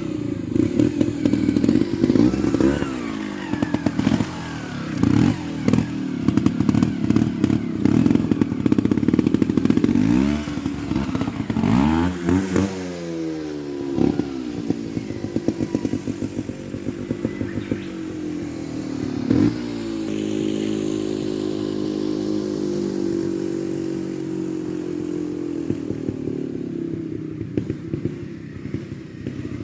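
Trials motorcycle engine worked in short, repeated throttle blips with clattering knocks from the bike. About twelve seconds in it revs up and down, then runs at a steadier low note with small changes in pitch.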